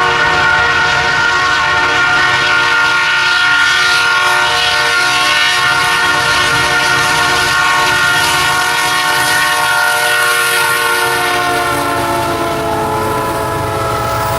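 Freight train's lead diesel locomotive horn sounding one long, loud, multi-note blast, dropping in pitch about twelve seconds in as the locomotive passes, over the low rumble of the engines.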